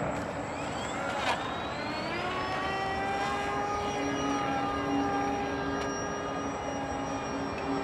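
A radio-controlled seaplane's motor and propeller whining. The pitch rises about two seconds in as the throttle opens, then holds a steady high whine over a constant rush of wind noise.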